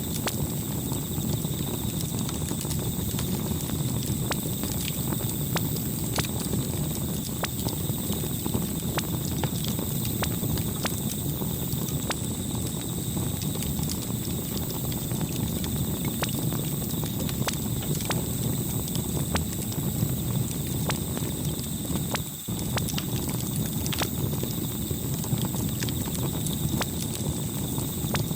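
Campfire burning: a steady low rumble of flames with irregular crackles and pops throughout.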